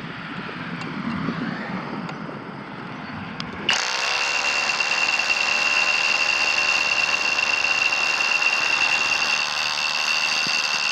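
Kobalt 24V Max brushless SDS Plus rotary hammer starts about four seconds in and runs steadily under load, with a high whine, drilling masonry with a 1-inch bit held in a keyed chuck adapter. The vibration keeps working the adapter's chuck loose.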